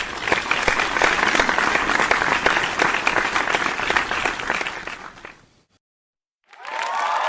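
Crowd applause: dense clapping that swells in, holds steady, and fades out about five and a half seconds in. After a short silence, another crowd sound starts near the end with a steady held tone over it.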